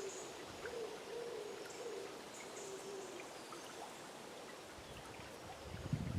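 A bird's low hooting calls, repeated a few times in the first three seconds, over the steady hiss of running river water, with faint high chirps of small birds. From about five and a half seconds, low rumbling surges of water come in.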